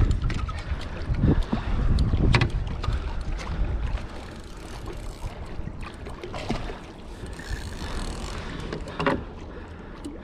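Wind buffeting the microphone over water sounds on a kayak at sea, heaviest in the first few seconds, with a few sharp knocks, two early on and one near the end.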